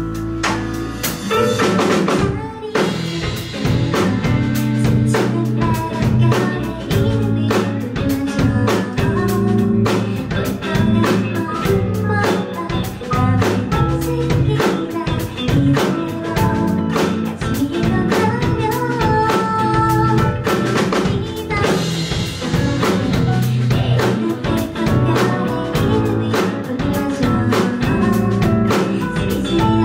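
A live band playing a song: drum kit keeping a steady beat with rimshots and bass drum under bass and guitar.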